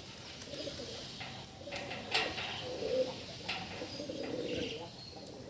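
Domestic pigeons cooing, a run of low murmuring coos, with a few sharp clicks among them.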